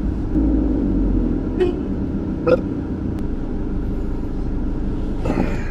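Car engine running low and steady, heard from inside the cabin, with a couple of faint clicks about one and a half and two and a half seconds in.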